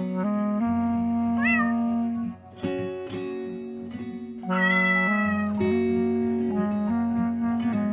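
A cat meowing twice over background music with plucked guitar: a short rising-and-falling meow about a second and a half in, and a longer, slightly falling meow about five seconds in.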